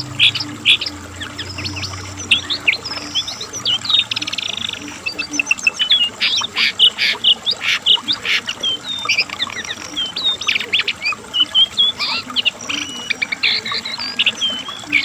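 Cingcoang (jongkangan coklat) singing a fast, varied song of short high notes, trills and slurred whistles, packed closely one after another.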